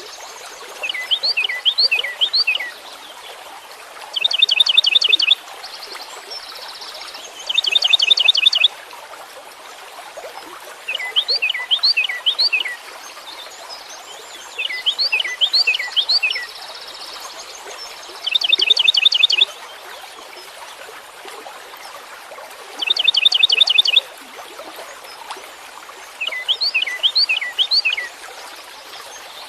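Songbird singing short, repeated phrases: one a run of quick, falling whistled notes, the other a fast, even trill, taking turns about every three to four seconds. A steady hiss runs underneath.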